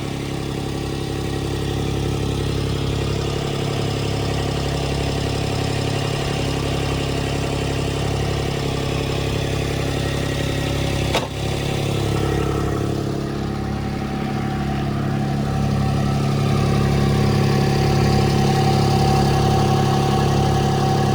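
Diesel engine of a Toro 22328 compact track loader running steadily, with a single sharp click about eleven seconds in. It grows a little louder in the last few seconds.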